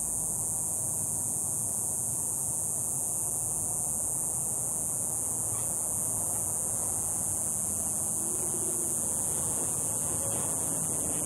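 Steady high-pitched hiss over a low rumble of noise, with a faint wavering tone near the end.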